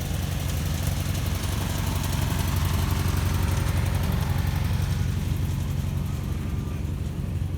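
An engine running steadily with a low hum, a little louder in the middle.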